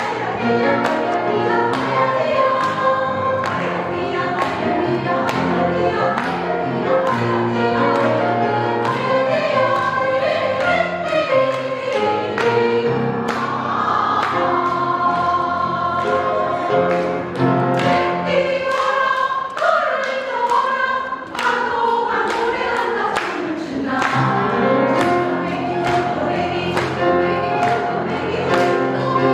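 Women's vocal ensemble singing in harmony over an accompaniment with a steady beat; the bass drops out for a few seconds past the middle, then returns.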